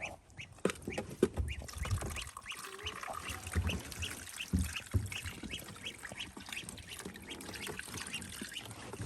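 Domestic ducks quacking in a steady run of short, repeated calls, with a few dull thumps in the first half.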